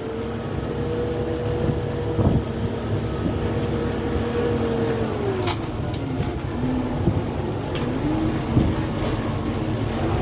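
Kubota M6-141 tractor's diesel engine running under load, its pitch dropping about five seconds in and climbing back up near eight seconds and again at the end. A few sharp cracks sound over it, the loudest about five and a half seconds in.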